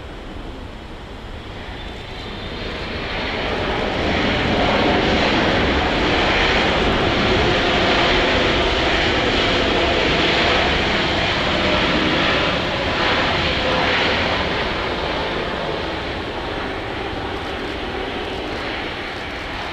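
Boeing 777-300ER's GE90 jet engines on a landing pass: a loud, steady jet noise that swells over a few seconds, holds for several seconds, then slowly fades as the airliner goes by.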